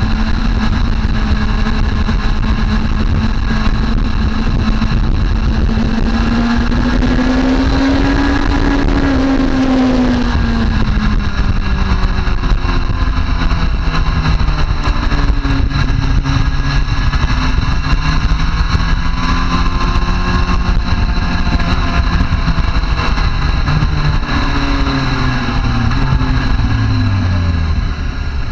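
Motorcycle engine at speed on a racetrack, its pitch rising and falling with throttle and gear changes over a steady rush of wind noise. The engine note drops away near the end as the bike slows.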